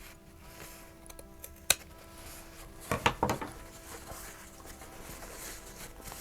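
Fabric scissors snipping: one sharp snip a little under two seconds in, then a quick run of snips about three seconds in, clipping and grading a seam allowance.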